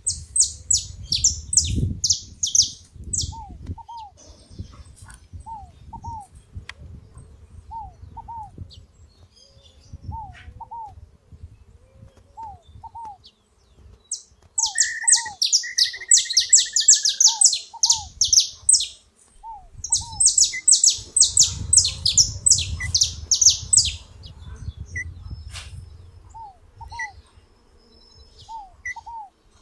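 Saffron finch singing in three bursts of rapid high chirps: one at the start, a longer one from about halfway, and another a few seconds later. Short paired lower notes repeat every second or two, over a low rumble.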